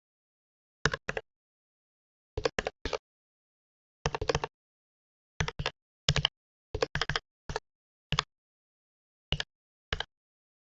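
Computer keyboard keystrokes, typed in short irregular bursts of one to a few keys, with dead silence between the bursts.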